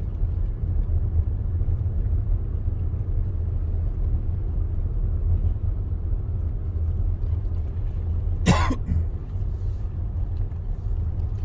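Steady low rumble of a car driving slowly, heard from inside the cabin. One brief sharp sound cuts through about eight and a half seconds in.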